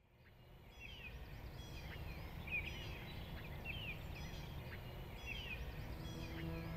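Birds chirping, with short repeated calls every second or so over a steady low rumble of outdoor noise, fading in from silence. Soft sustained music notes come in near the end.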